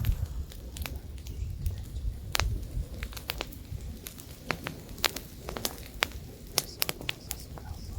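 Wood campfire crackling, with many sharp, irregular pops over a low rumble of light wind.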